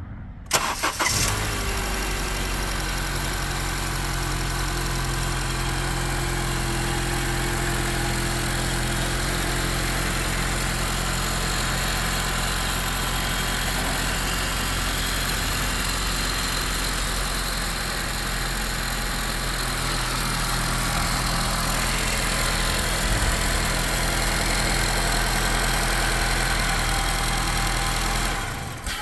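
A 2013 Honda CR-V's 2.4-litre four-cylinder engine cranked and starting about half a second in, then idling steadily, with a faint whine that falls slightly in pitch over the first several seconds. The engine is switched off near the end.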